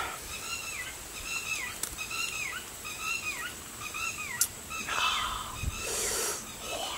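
A bird calling over and over in short arched notes, about two a second, with a brief rustle of handling about five seconds in.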